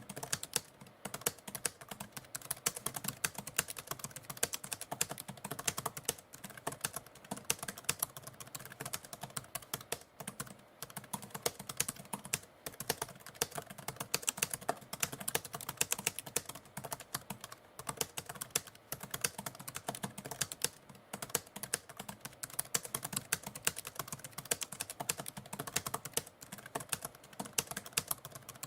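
Typewriter keys struck in a fast, continuous run of clicks, broken by a few short pauses.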